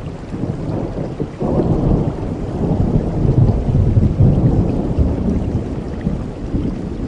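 Thunder rolling over steady rain. A low rumble swells sharply about a second and a half in, is loudest in the middle, and eases off toward the end.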